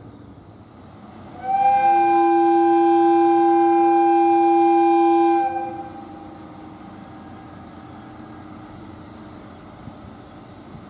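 Japanese railway train horn sounding one long steady blast of about four seconds, two tones at once, starting about a second and a half in and cutting off sharply, over a steady low rumble.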